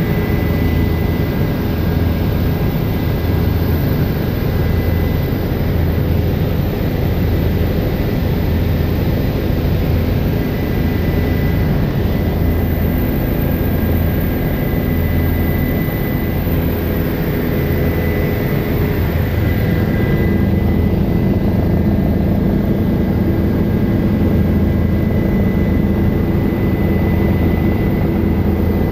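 Helicopter turbine engine and rotor running steadily and loud, a low drone with a thin high whine over it. About twenty seconds in, the low drone shifts and grows heavier.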